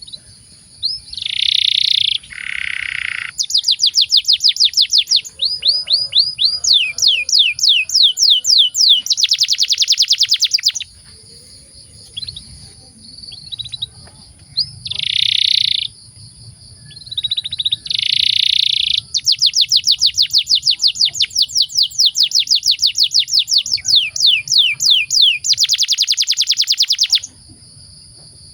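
Domestic canary singing a long song made of rapid trills of repeated sweeping notes and a few longer buzzy notes. It stops for a few seconds about halfway through, then starts another long run of trills.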